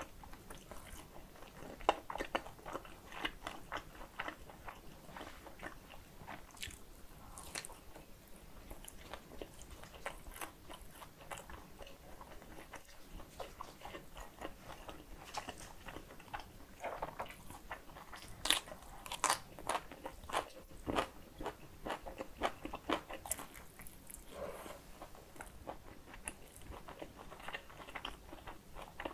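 Close-up biting and chewing of a Korean dumpling: a steady, irregular run of short, sharp mouth clicks and wet chewing, with a few louder bites about two seconds in and again past the middle.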